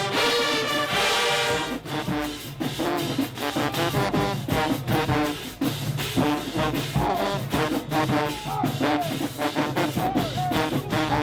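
High school marching band playing: the brass section holds a chord for about the first two seconds, then plays short, punchy notes over a busy drum-line beat.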